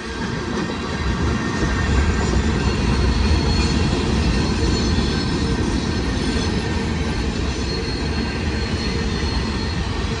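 Freight train rolling past: a steady rumble of cars on the rails with a faint high wheel squeal, growing louder about a second in and then holding.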